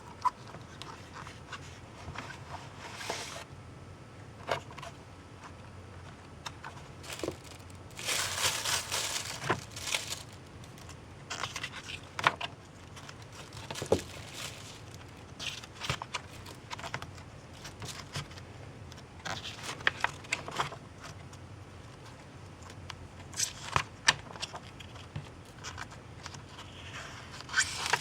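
Plastic and paper packaging of an N-gauge model train set being handled: scattered small clicks and taps with short bursts of crinkling and rustling, the longest rustle about eight seconds in.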